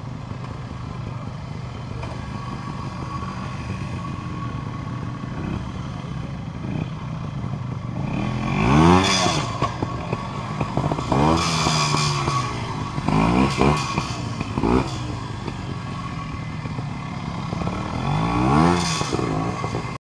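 Old trials motorcycle engine running steadily at low speed, then revved in five short bursts in the second half, each rising and falling in pitch, as the bike is worked up a rocky section.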